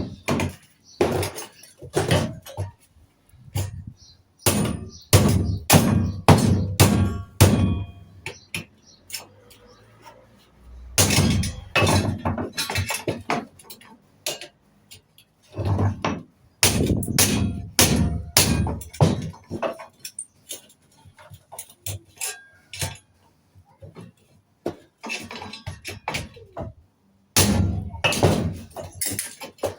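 Repeated hard metal knocks and bangs in bursts, a few blows a second, as a scrap microwave's metal parts are struck and broken apart.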